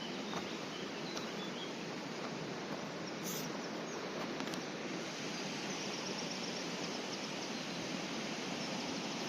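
Steady rushing of river water pouring over a weir, an even hiss and roar. Faint bird chirps come through in the second half.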